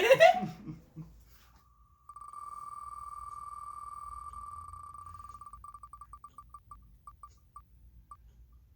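Rapid electronic ticking so fast it blurs into a steady high tone. It slows into separate ticks spaced further and further apart and stops near the end, the sound of a random letter picker spinning down to its choice.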